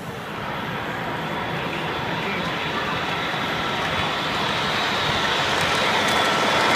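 Model train running, its noise growing steadily louder, with a faint steady whine running through it.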